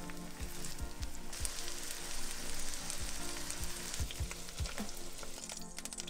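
Chicken and zucchini cutlets sizzling in hot vegetable oil in a non-stick frying pan. The sizzle swells after about a second and a half and thins out near the end.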